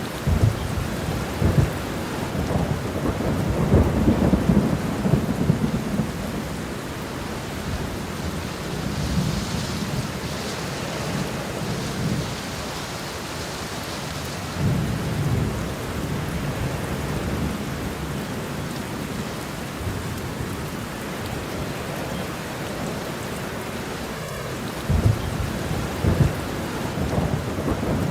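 Steady rain with thunder rumbling several times: near the start, around four seconds in, around fifteen seconds in, and again near the end.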